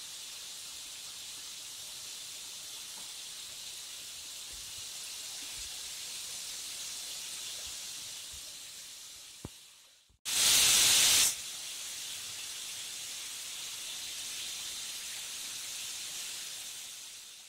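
Soaked chana dal deep-frying in hot oil in a kadai: a steady fine sizzle as the floating dal crisps at medium flame. The sizzle dies away twice, and about ten seconds in a much louder rush of hissing lasts about a second.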